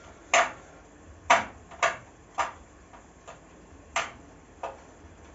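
Sharp, irregular clicks and light knocks, about six of them, from taking apart an oven door: its metal and glass parts being unscrewed and handled.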